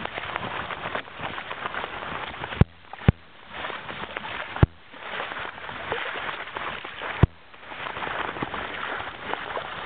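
Steady rushing of wind and water around a small sailing boat, broken four times by a sharp click followed by a brief quieter gap.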